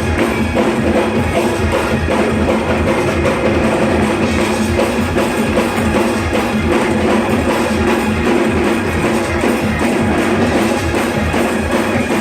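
Live church band playing a fast praise-break groove, led by drum kit with a steady, fast kick-drum beat under continuous instruments.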